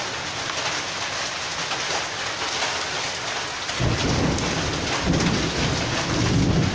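Heavy rain and hail pelting down in a steady hiss, with many sharp ticks of hailstones striking surfaces. About four seconds in, a strong low rumble joins in and carries on to the end.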